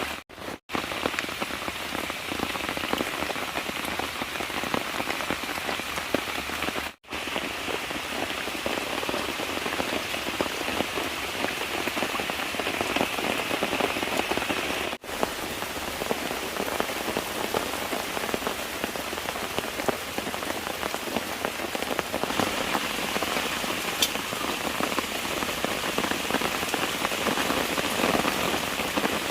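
Steady, dense patter of heavy rain falling, broken three times by a split-second dropout.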